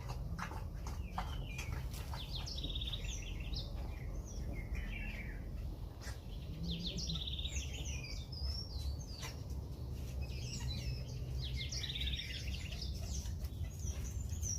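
Ultramarine grosbeak (azulão) singing: several warbled phrases of whistled notes that slide up and down, each lasting a couple of seconds, with short pauses between. A steady low hum runs underneath.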